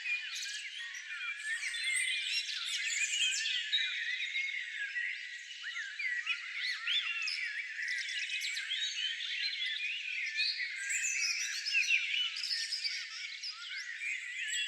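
Many small birds chirping and calling at once: a dense chorus of short, high, overlapping chirps and quick pitch slides with no pauses.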